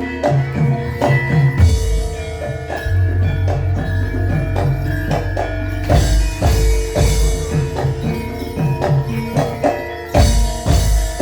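Javanese folk dance music for imblig: hand drums struck in a steady rhythm with deep booming low strokes, over ringing tuned gongs and metal mallet percussion.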